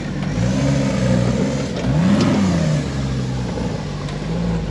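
Off-road truck engine revving while crawling over rocks: the pitch rises soon after the start, holds, then climbs sharply to one quick peak about two seconds in and drops back.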